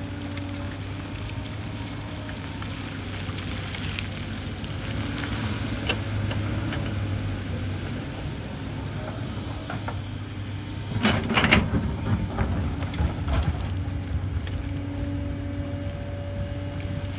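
Hyundai excavator's diesel engine running steadily under work, with a faint steady hydraulic whine. A short cluster of loud knocks and clatter comes about eleven seconds in.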